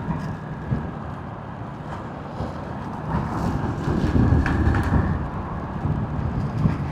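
Motorcycle engine and wind rush while riding on the road, heard from a microphone inside the rider's helmet. The rumble swells a little about halfway through.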